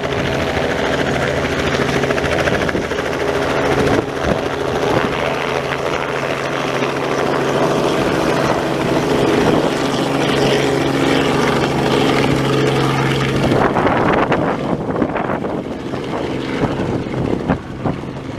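Propeller aircraft engine running steadily, with an even stack of engine tones. About fourteen seconds in, the steady tone drops away, leaving a rougher, noisier sound.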